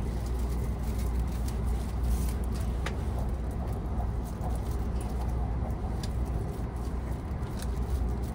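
Steady low rumble and running noise of the Sunrise Express sleeper train, a 285 series electric train, heard from inside the carriage as it travels, with a few faint clicks.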